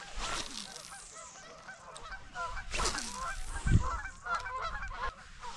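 A flock of geese honking, many short calls overlapping. A few louder low rumbles break in, the strongest a little before four seconds in.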